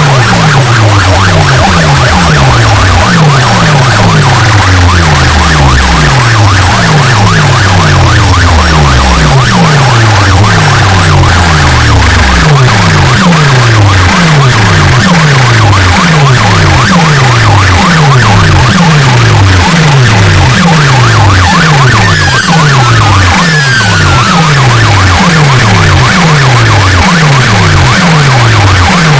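Competition DJ speaker system played at full volume, repeating a falling bass sweep about one and a half times a second, a siren-like effect. A deep held bass note underneath stops about twelve seconds in.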